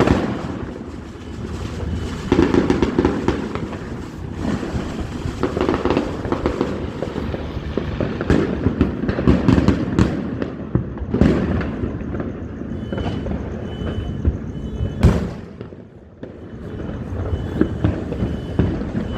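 Fireworks going off: a steady stream of bangs and crackling, with several louder reports in the second half, the loudest about fifteen seconds in, followed by a brief lull.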